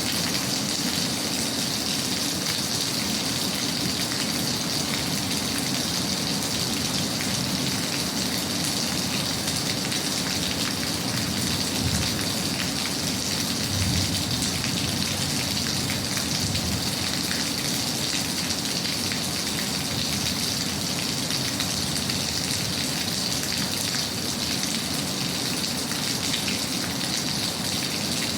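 Steady rain falling, an even patter throughout, with two brief soft low thuds about twelve and fourteen seconds in.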